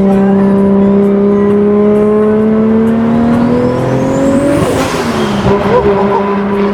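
Turbocharged Supra engine with a 4-inch straight pipe and 70mm turbo cruising, then pulling: the engine note climbs while a turbo whistle rises above it. About four and a half seconds in there is a brief rush of air as the throttle closes, and the note drops back to a steady cruise.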